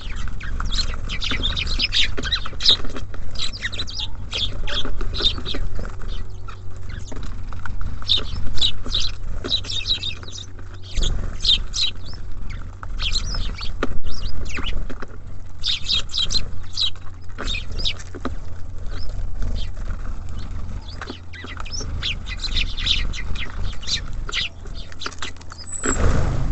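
Small songbirds (tits and sparrows) chirping and calling continuously in many short, rapid high chirps. A steady low rumble runs underneath, with a knock about eleven seconds in and another near the end.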